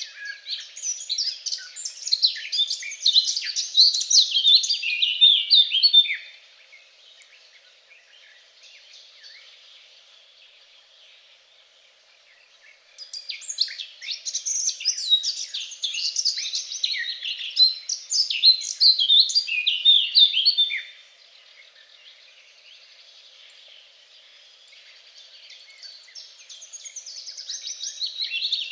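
A songbird singing long, fast, varied phrases of about six to eight seconds each, with pauses of several seconds between them; a third phrase builds up near the end.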